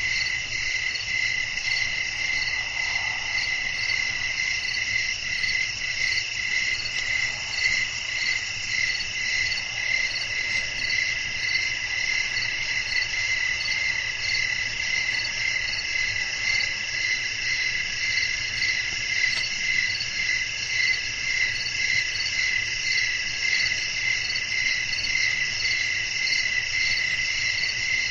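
A night chorus of crickets chirping without a break, with several overlapping trills at different pitches.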